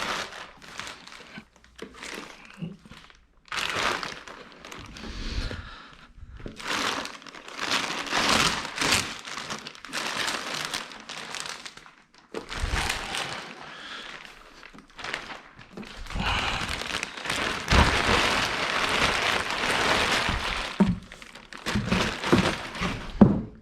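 Plastic packaging crinkling and rustling in repeated stretches as it is pulled open and handled, with a few dull knocks in between.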